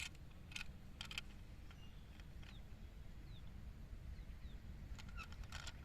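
Faint outdoor background with a low rumble, a few short clicks, and some faint, high, short chirps like distant birds.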